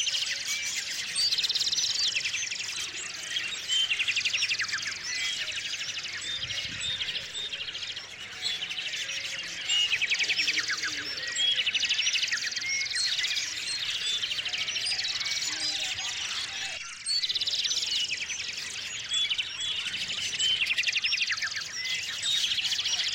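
Several small songbirds chirping and trilling over one another: short high chirps mixed with fast repeated-note trills, coming in bursts every second or two.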